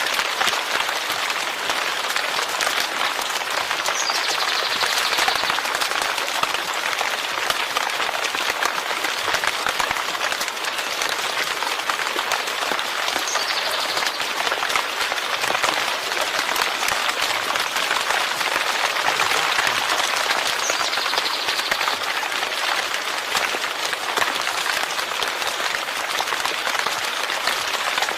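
Steady rain, a dense even hiss of countless drops falling on a surface.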